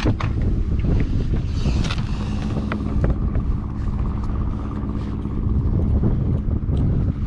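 Strong wind buffeting the microphone, a steady low rumble with scattered light clicks.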